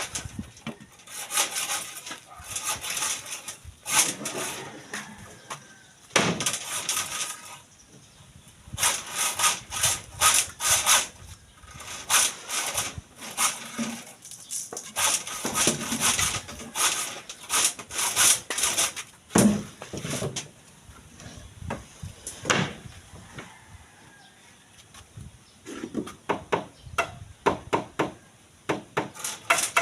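Repeated back-and-forth scraping strokes, like hand sawing, in runs of a few seconds broken by short pauses.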